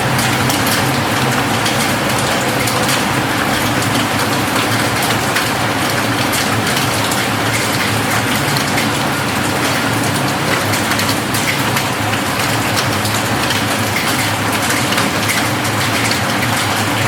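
Steady rain falling on a roof: an even hiss dotted with many individual drops ticking.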